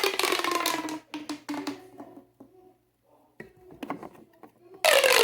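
Plastic pop tube being stretched: a buzzy, ribbed tone that falls steadily in pitch, ending about a second in. Then a few short clicks and rattles as the tube is bent and pushed back, and a second falling buzz near the end.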